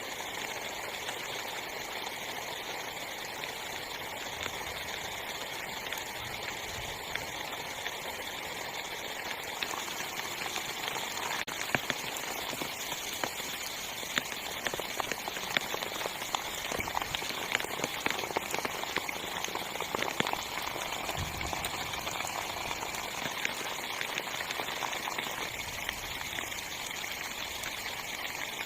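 Heavy rain on a small tent: a steady hiss with individual drops tapping on the fabric, the taps coming thicker and louder through the middle.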